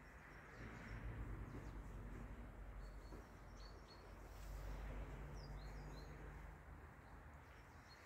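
Faint outdoor ambience: a low steady rumble with a few short, high bird chirps, two a little before the middle and three more about two-thirds of the way through.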